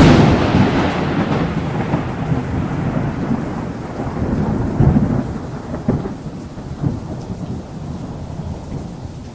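A thunderclap breaks sharply, then rolls on as a long low rumble with a few further swells, over the steady hiss of rain, slowly fading.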